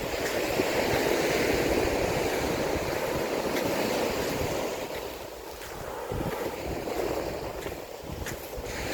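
Waves breaking and washing up a sandy shore. The surf swells, falls back about five seconds in, then rises again. Wind buffets the microphone throughout.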